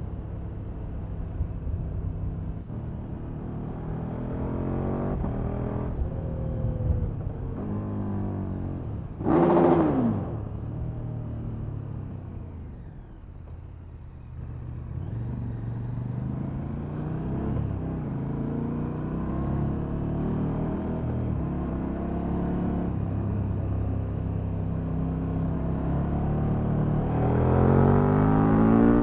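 KTM Super Duke's V-twin on its stock exhaust, running through the gears on the road, revs rising and falling. About nine seconds in there is a brief loud burst that drops quickly in pitch, the engine quietens for a few seconds after, and it revs up harder near the end.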